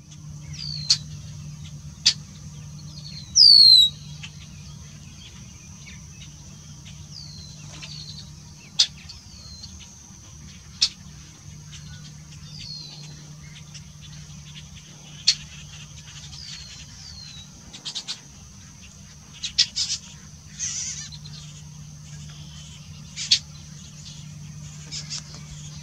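Wild birds chirping: scattered short falling chirps and sharp single calls, with one louder sweeping call about three and a half seconds in, over a steady low hum.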